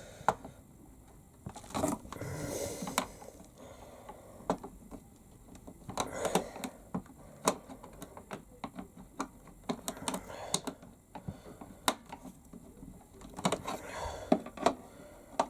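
Plastic casing of a Theo Klein Miele Novotronic toy washing machine being worked on while its screws are undone with a flathead screwdriver. It gives irregular clicks, taps and short scrapes of metal on plastic.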